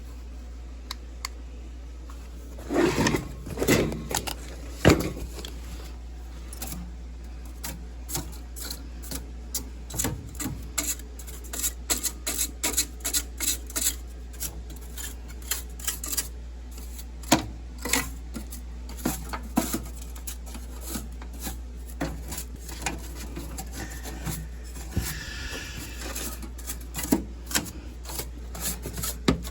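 Irregular clicks, taps and scraping from hands working with tools and parts, several a second, over a steady low hum, with a few louder knocks about three to five seconds in.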